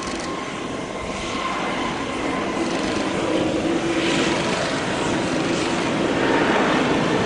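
Jet engines of an Airbus A320-251N (A320neo) airliner, a steady rumbling roar with a faint hum in it, growing gradually louder.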